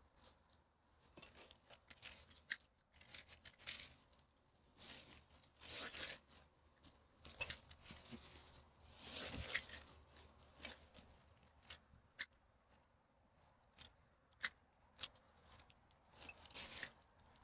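Irregular rustling and crackling of litter and forest-floor debris being handled, in short clusters of sharp crackles with brief pauses between.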